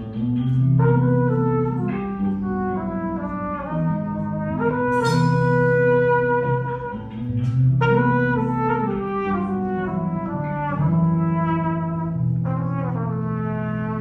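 A cappella voices singing in close harmony without instruments, holding sustained chords over a low bass line. The chords start suddenly at the outset.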